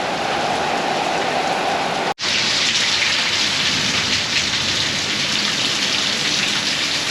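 Rain falling steadily in a thunderstorm. It briefly cuts out about two seconds in, where two recordings are joined, and then goes on with a brighter hiss.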